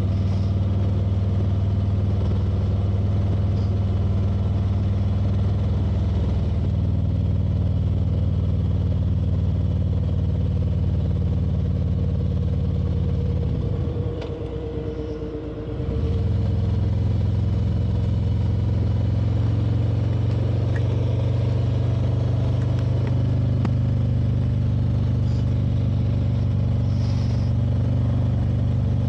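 Motorcycle engine running at a steady cruise. About halfway through it drops off for a couple of seconds as the throttle is eased, then picks back up at slightly higher revs.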